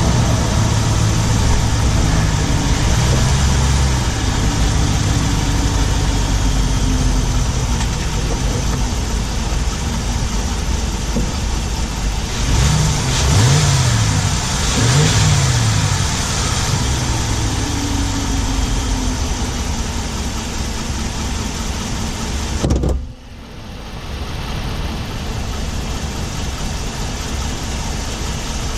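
Ram 1500's 5.7 Hemi V8 running under the hood on the move, heard from the driver's side of the engine bay with a ticking that the owner suspects is the Hemi tick. Engine speed rises and falls twice around the middle, and the sound drops off sharply for a moment about three quarters of the way through before coming back.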